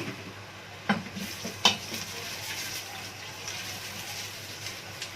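Diced onions sizzling in ghee in a cooking pot, with a spoon knocking against the pot a few times in the first two seconds as they are stirred.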